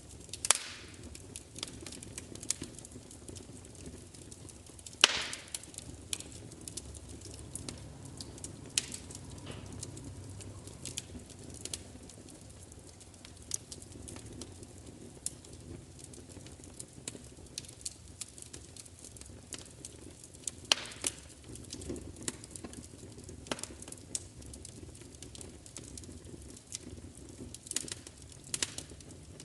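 Wood fire crackling, with irregular sharp pops and snaps over a low steady rumble. The loudest pop comes about five seconds in.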